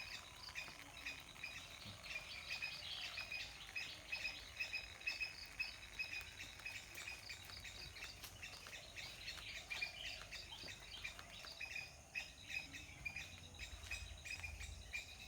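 Birds chirping steadily, many short repeated chirps overlapping one another.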